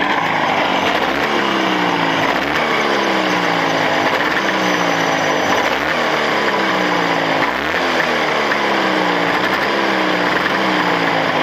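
Jawa two-stroke motorcycle engine running during running-in of a freshly fitted Chinese-made cylinder, its revs jumping up every two to three seconds and sinking slowly back. No knocking is heard.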